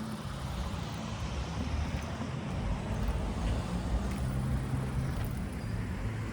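Street ambience dominated by a motor vehicle's engine running close by, a low steady rumble with a faint hum that is strongest around the middle.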